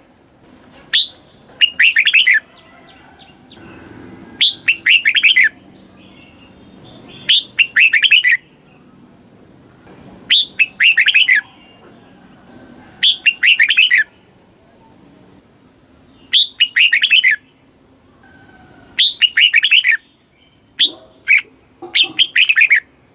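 Red-whiskered bulbul singing: short, bright phrases of about a second each, a lead note then a quick run of warbled notes, repeated every two to three seconds, about nine phrases in all.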